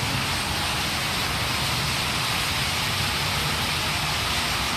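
A large flock of birds roosting in trees, all calling at once so that the calls blend into a steady, even din.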